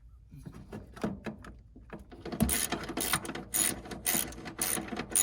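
Hand ratchet wrench being worked in short back-and-forth strokes, about two sharp ratcheting rasps a second from a little over two seconds in, while a washer fluid reservoir is fastened in place. Before that there are loose clicks and rattles as parts and tools are handled.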